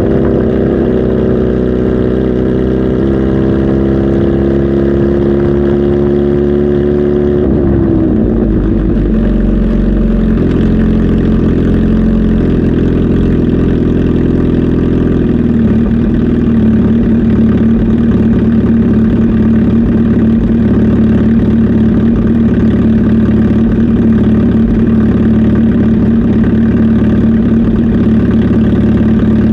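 Kawasaki Z H2 SE's supercharged inline-four engine running at a fast idle whose pitch sinks slowly, drops sharply about seven seconds in, and settles to a steady lower idle after about sixteen seconds.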